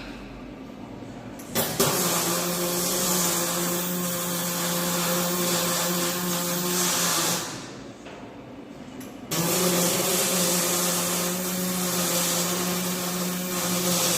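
Welding on a steel chassis frame: two welding runs of about five to six seconds each, with a pause between. Each starts and stops abruptly, a steady hiss over a constant hum.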